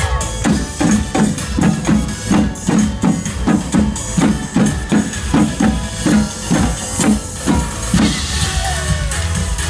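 Live band show music driven by drums: an even beat of low drum hits, about two and a half a second, over backing music. About eight seconds in the drum strikes stop and the music carries on.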